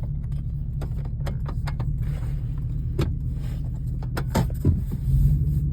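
Truck engine running steadily at low revs, with scattered sharp clicks and rattles over it; the engine grows louder about five seconds in.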